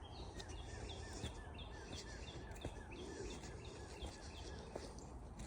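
A bird singing a fast, even run of short down-slurred chirps, about three a second, faint over a low steady rumble of outdoor background noise.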